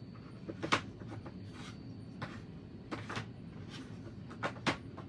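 Small wooden blocks clicking and knocking against a wooden frame as they are set in and moved around to test the fit. There are a few sharp knocks: one about a second in, another near the middle, and two quick ones near the end.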